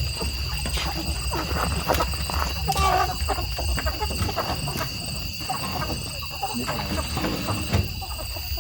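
Chickens squawking and calling, with scattered clicks and knocks, over a steady high-pitched whine and a low rumble. Voices murmur faintly in the background.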